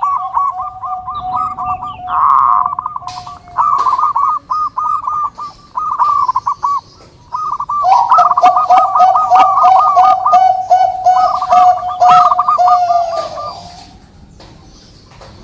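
Zebra doves (perkutut) cooing: fast, overlapping runs of short repeated coo notes over a held lower note, with some sharp clicks in the middle. The song fades off about two seconds before the end.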